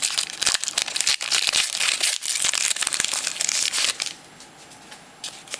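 Wrapper of a 2010 Panini Rookies & Stars football card pack being crinkled and torn open: a dense crackling rustle that stops about four seconds in, followed by a few light ticks as the cards are handled.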